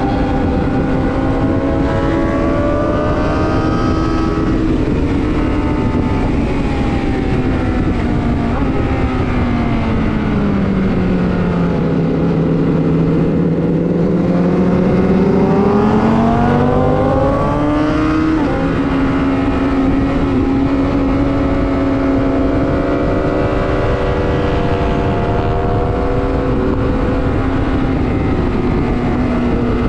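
Superbike engine running hard on a race track, with a dense rush of noise underneath. About a third of the way in the engine note sinks for several seconds, then climbs back up and holds steady again.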